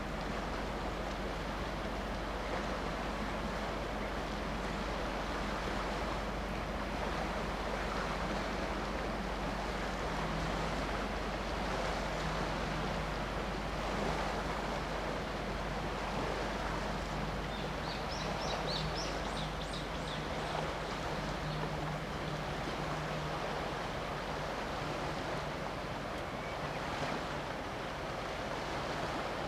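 Steady wind and water noise, with the low, steady drone of a large ship's engine from about ten seconds in, fading after about twenty-four seconds. Brief high chirps just past the middle.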